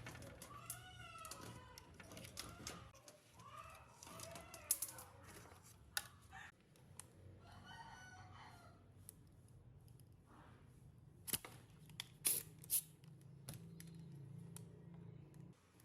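Chickens calling: a drawn-out, rooster-like crow in the first few seconds, then shorter calls around four and eight seconds in. A steady low hum runs underneath, with scattered sharp clicks and taps that are loudest near five and twelve seconds.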